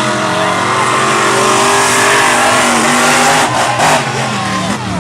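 Monster truck engines running at high revs during a race, the pitch holding high with a slight rise in the middle and a brief dip near the end.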